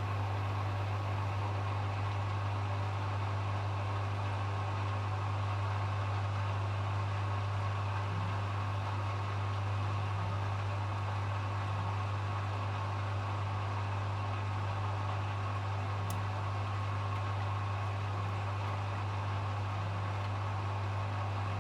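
Hoover HW411AMC washing machine in its final spin, the drum turning at a steady speed with a constant low motor hum and an even whirring hiss.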